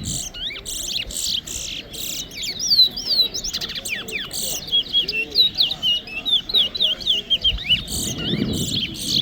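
Towa-towa finches singing in a song contest: rapid runs of short, high chirped whistles, phrase after phrase with only brief gaps.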